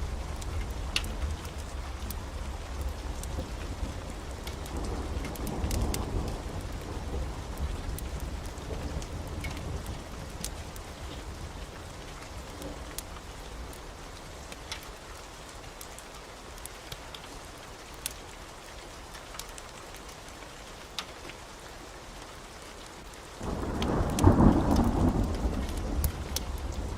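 Heavy rain falling steadily, with thunder rumbling in the first part and a sudden loud thunderclap rolling for a few seconds near the end. Scattered sharp crackles run throughout.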